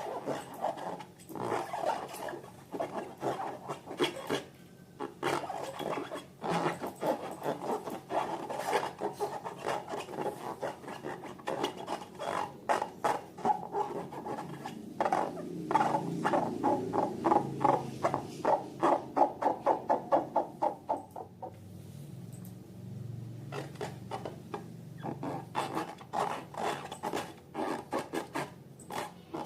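Hands squishing and stretching slime, making rapid sticky crackles and small pops, which ease off for a few seconds about two-thirds of the way through.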